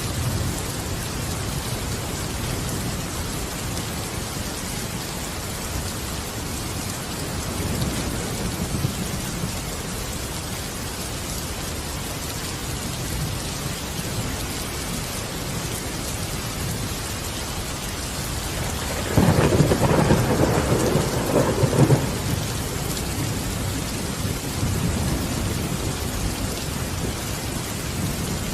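Steady rain falling, with thunder rumbling at intervals. About two-thirds of the way through comes a loud, close thunderclap lasting about three seconds, with softer rumbles before and after it.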